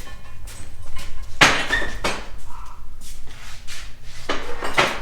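Metal parts and tools clanking as they are handled: a loud clank about a second and a half in with a short ring, and a few more knocks near the end, over a low steady hum.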